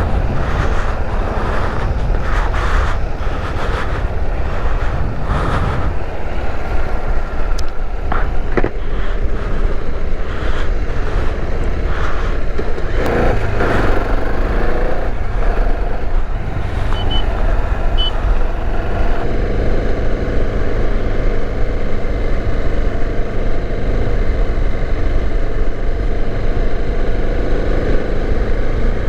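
Riding on a Bajaj Dominar 400 motorcycle: a steady, loud rush of wind on the microphone over the engine running at a steady pace. A faint steady engine note comes through more clearly near the end.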